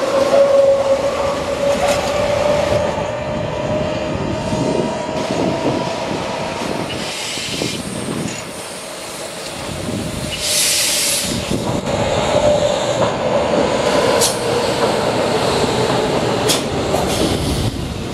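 Hamburg S-Bahn electric trains running over a temporary bridge: a steady whine over rolling wheel noise, a brief hiss about ten seconds in, and a few sharp clacks of wheels over rail joints near the end.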